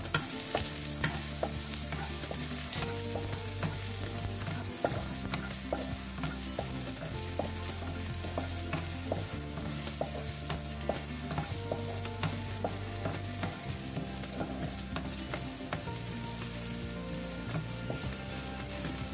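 Minced garlic sizzling in hot oil in a nonstick wok. A wooden spatula scrapes and taps against the pan over and over as the garlic is stirred.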